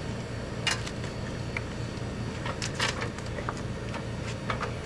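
A handful of irregular light clicks and knocks of hand tools and metal parts, as bolts are started on a go-kart's pull-start housing, over a steady low hum.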